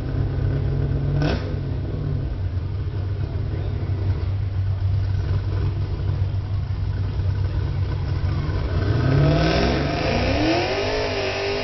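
Pontiac Trans Am's V8 held at high revs through a burnout: a steady drone with one sharp crack about a second in. Near the end the revs climb and waver.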